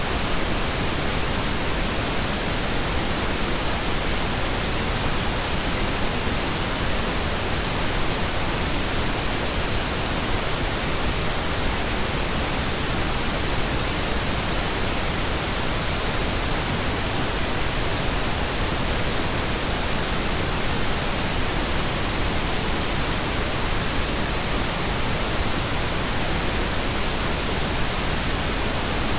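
Steady electronically generated pink noise: an even, unchanging hiss across all pitches.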